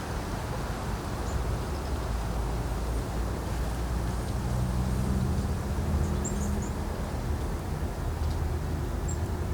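Outdoor ambience: a steady low rumble of wind on the microphone, with the hum of a distant vehicle rising and fading in the middle. A few faint, brief high bird chirps come through, a cluster about six seconds in.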